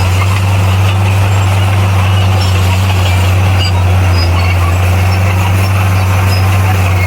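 Bulldozer's diesel engine running steadily: a loud, constant low hum that holds one pitch throughout.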